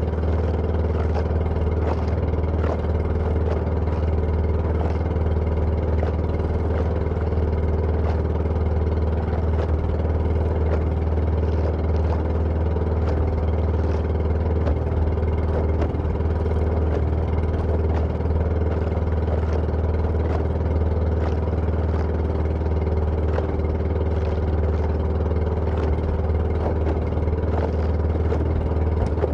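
An engine running steadily at an even speed, with faint clicks over it.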